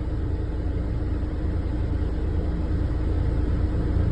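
Steady low rumble of an airliner's engines running on the ground, with a constant droning hum, growing slightly louder near the end.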